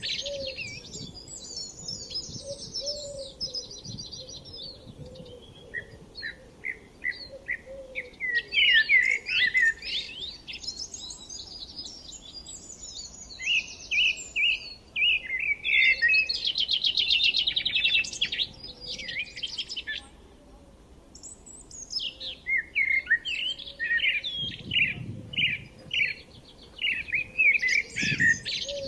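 Several songbirds chirping and singing in overlapping short calls and trills. A fast, dense trill stands out about halfway through, and the calls ease off briefly soon after.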